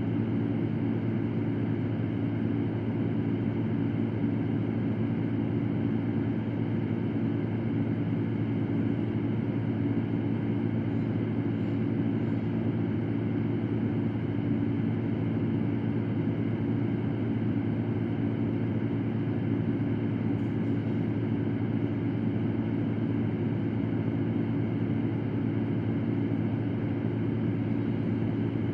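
Electric fan running steadily: a constant whooshing hum with a low drone, unchanging throughout.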